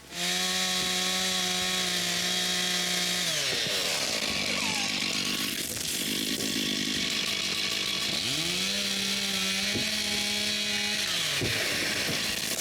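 Two-stroke chainsaw running at high revs, its pitch sagging about three and a half seconds in, climbing back up near eight and a half seconds, then dropping again near the end.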